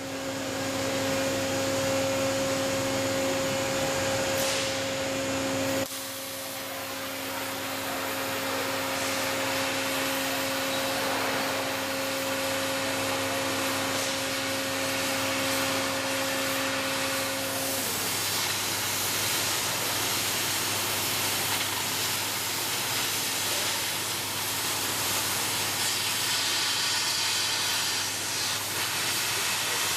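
Steady hissing of a cutting torch on a CNC beam-cutting machine cutting through a steel beam, with a steady hum under it that stops about eighteen seconds in.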